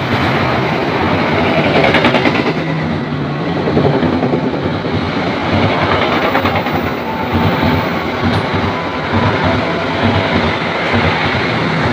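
Passenger train coaches passing at speed on the track right beside the platform: a loud, steady noise of wheels running on the rails.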